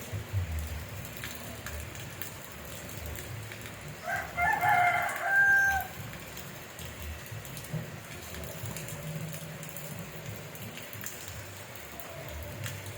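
Steady rain falling, with a rooster crowing once about four seconds in: a call of nearly two seconds that ends on a held note.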